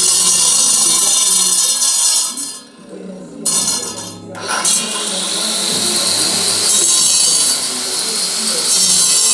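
Angle grinder running and cutting, loud and hissing. About two and a half seconds in it briefly drops away twice, then the motor spins back up with a rising whine and carries on cutting.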